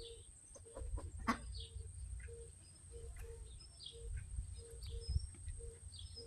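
Chickens clucking in short, low notes repeated about every half second while feeding, with scattered high chirps over the top.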